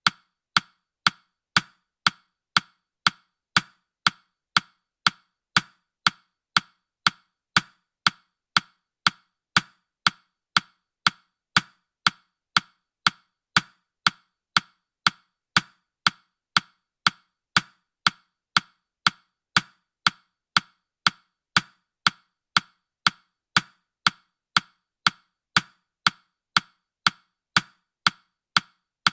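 Countdown timer's ticking sound effect: short, sharp wood-block-like clicks at a steady rate of about two a second.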